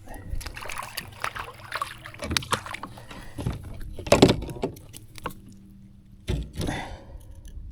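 Knocks and clatter of gear against a kayak, with light water sloshing; a sharp knock about four seconds in is the loudest, with another loud knock a little after six seconds.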